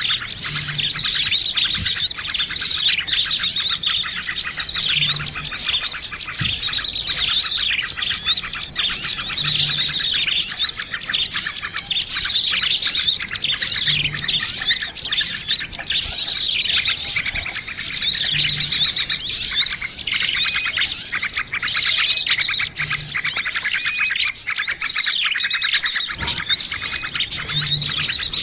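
A dense chorus of many small birds chirping and twittering nonstop over one another. It is a 'noisy small birds' lure recording (suara pikat), played to draw small birds in.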